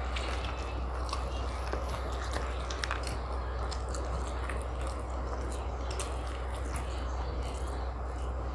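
A person biting and chewing food close to the microphone: scattered small clicks of mouth and food noise over a steady low hum.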